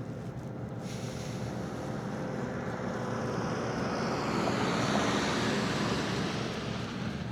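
A motor vehicle passing by: a rushing noise that grows louder to a peak about five seconds in, then fades as its pitch drops.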